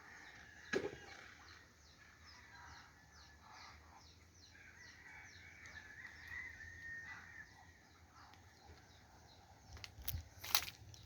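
Birds calling: a fast run of short, high chirps repeated about four times a second, with a longer wavering call in the middle. A sharp knock about a second in and a few more near the end.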